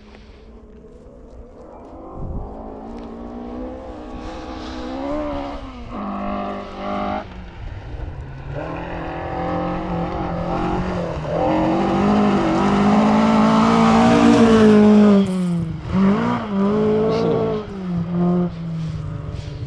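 Rally car coming through the stage under hard acceleration, its engine revving up and dropping back with each gear change. It grows steadily louder and is closest at about fifteen seconds, then revs on as it pulls away.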